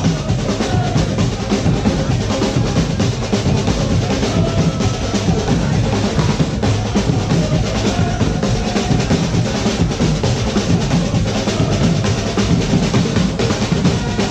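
Drum-driven music: a dense, continuous beat of bass drum and snare played fast and without a break.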